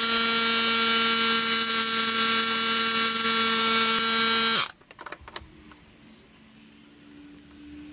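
Electric hand-held wood router switched on, spinning up quickly and running at a steady high whine for about four and a half seconds, then cutting off abruptly.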